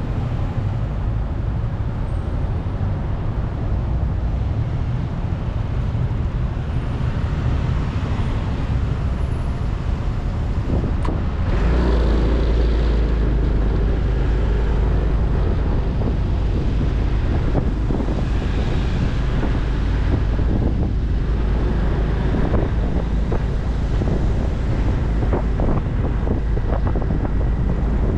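Motorcycle on the move in road traffic: engine and road noise with wind on the microphone, growing louder about twelve seconds in.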